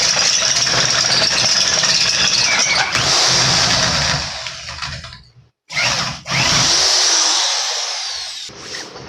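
Handheld power drill boring a hole, run in bursts: it runs hard, dies away to a stop about five seconds in, gives a short blip, then runs again and spins down near the end.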